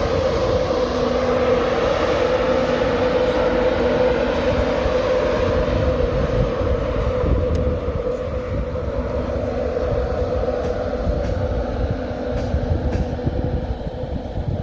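A train running at the station: a steady hum over a low rumble, getting a little quieter near the end, with a few faint clicks.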